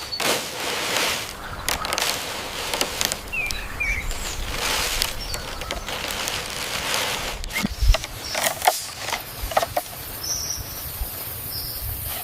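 Rustling and handling noise with scattered short knocks, and a few brief bird chirps about three seconds in and again near the end.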